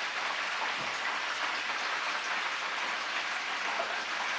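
Chicken pieces frying in hot oil in a pan, a steady sizzling hiss as they are cooked crispier.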